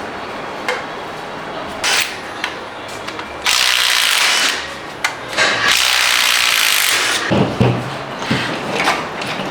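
Power tool running in two bursts of about a second each during engine disassembly, with clinks of tools and parts between them and a few heavy knocks near the end.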